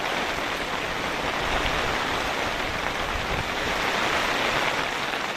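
A good rain shower falling steadily, an even hiss of raindrops.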